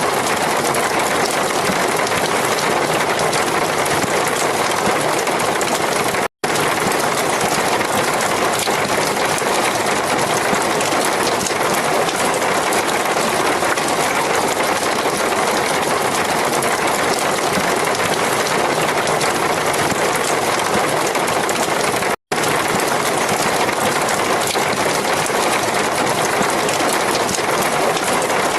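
Steady heavy rain, an even hiss with no thunder, that cuts out to silence for an instant twice, about six seconds in and again near twenty-two seconds.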